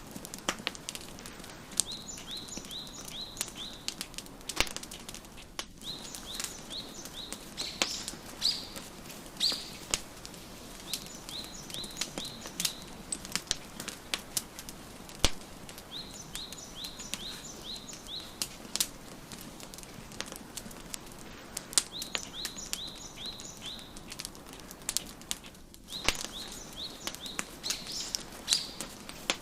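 Wood fire crackling, with irregular sharp pops, over a soft steady hiss. A songbird sings throughout, in quick phrases of short high chirps that come back every few seconds.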